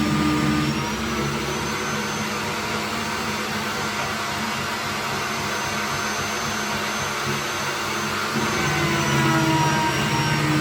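Magnetic drill running a 35mm annular cutter through steel: a steady motor whine with a low hum that fades for most of the time and comes back strongly near the end.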